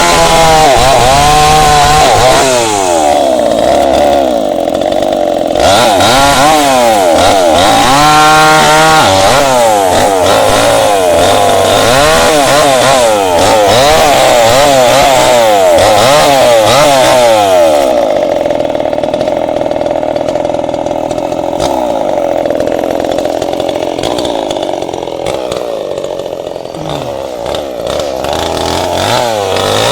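Tanika MS 5800 two-stroke chainsaw cutting into candlenut wood, loud, its engine pitch swinging up and down as it revs and loads in the cut. From about the middle it holds lower and steadier under load, then rises again near the end.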